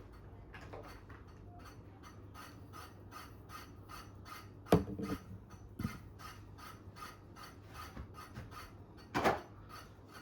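Hands opening the packaging of a boxed die-cast scale model: a quick, even run of small scraping strokes on cardboard and plastic, broken by a few sharp knocks about halfway through and again near the end as the model is lifted out.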